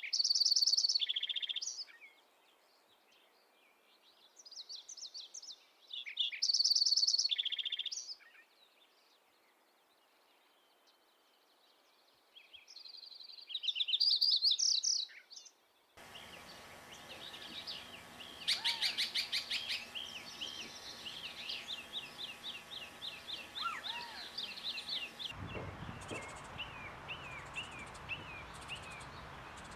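Songbirds singing in a run of separate recordings cut together. First, one bird repeats a short, high song phrase about every six seconds. After an abrupt cut, a quick series of chirping notes takes over, with a brief rapid trill, and a further cut near the end brings in another bird's repeated chirps.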